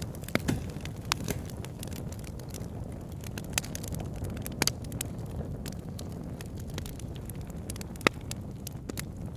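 Wood fire burning in a fireplace: a steady low rumble of the flames with irregular crackles and pops, the sharpest snap about eight seconds in.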